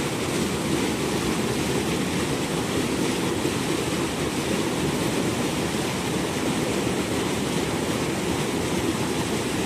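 Steady, loud rush of flowing river water, an even noise with no separate events.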